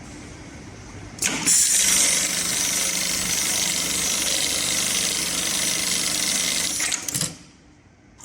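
MLK500 electronic pattern sewing machine running a stitch pattern on heavy webbing: it starts about a second in, runs steadily at high speed for about six seconds, then stops, with a sharp click near the end.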